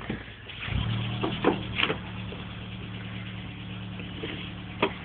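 A 1986 Nissan Cherry 1.3's four-cylinder petrol engine fires about a second in on a jump start from a flat battery, then settles into a steady idle. A few sharp clicks come just after it catches.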